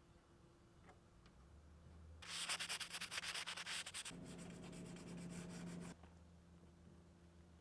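Hand sanding on a car door panel: quick back-and-forth strokes start about two seconds in, run for about four seconds and stop suddenly.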